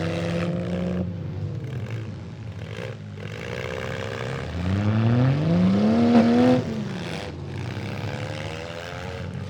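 Demolition derby vehicle engines running and revving under load; about halfway through, one engine climbs steeply in pitch to a high rev and then drops off suddenly.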